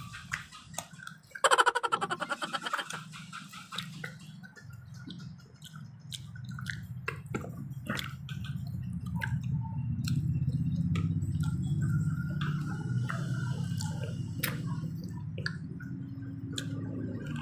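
Eating noises at a table: plastic forks and skewers clicking against plates and containers, with chewing. A short loud rattling burst comes about a second and a half in, and a steady low engine hum from vehicles outside builds up from about halfway through.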